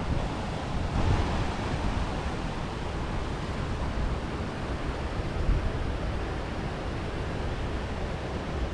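River water rushing steadily, with wind buffeting the microphone and making a low, uneven rumble.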